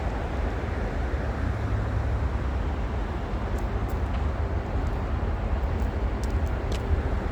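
Steady low rumble of a moving vehicle, with a few faint ticks over it.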